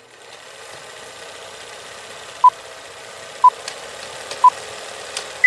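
Steady static hiss fading in, with three short beeps a second apart and a final higher-pitched beep, in the pattern of a countdown.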